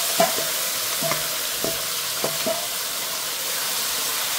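Shrimp frying in hot oil with a steady sizzle. A utensil stirring them scrapes in the pan about five times in the first two and a half seconds.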